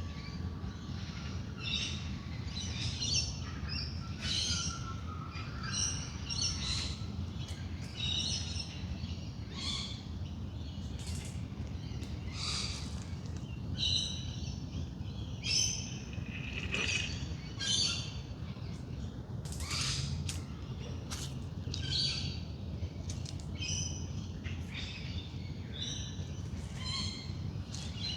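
Dawn chorus of many wild birds, with short chirps and calls from several birds overlapping continuously, over a steady low rumble.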